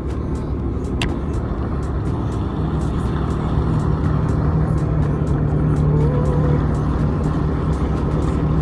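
Jet ski engine running steadily, a low hum settling in a couple of seconds in, with background music and a ticking beat over it.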